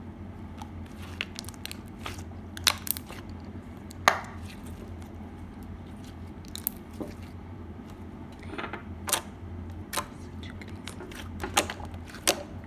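Crunchy slime being squeezed and poked by hand, giving irregular crackles and snapping pops, the loudest a little after the start and about four seconds in.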